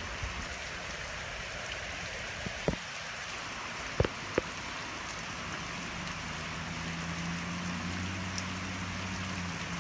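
Heavy rain falling steadily, with a few sharp drip taps near the middle. A low steady hum comes in about two-thirds of the way through and stops just before the end.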